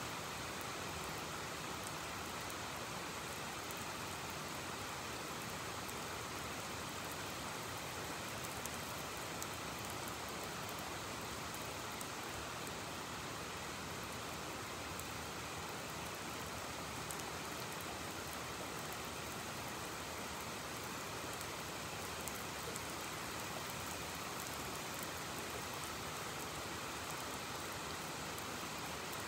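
Heavy rain falling steadily, an even hiss with scattered faint ticks of drops.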